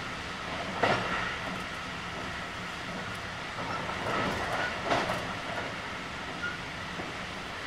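JR West 223 series 2000-subseries electric train (Toshiba IGBT inverter) running at speed, heard from inside the car: a steady rumble of wheels on rail, with two sharp clunks, one about a second in and one near five seconds.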